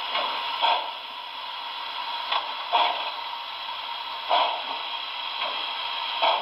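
Sound decoder of an HO-scale Broadway Limited Paragon 4 Milwaukee Road S3 4-8-4 model playing slow steam chuffs through its small speaker as the locomotive creeps in reverse. There are about eight chuffs, roughly one a second, over a steady hiss. The chuffs are synchronized with the driving wheels, four per wheel revolution.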